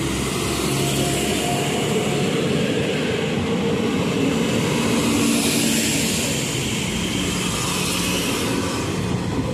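Passenger train passing close alongside the platform: a steady rumble of wheels on the rails, with a hiss that swells about five seconds in.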